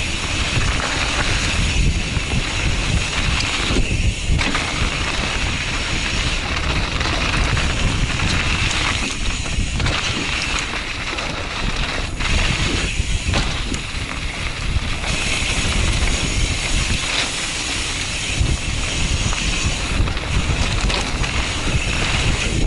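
Mountain bike descending a wet, muddy dirt trail: steady wind rush over a helmet-mounted camera's microphone mixed with tyre and trail noise, with brief dips every few seconds.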